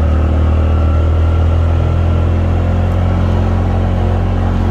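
Engine of a small open utility vehicle running steadily as it drives along, a constant low hum.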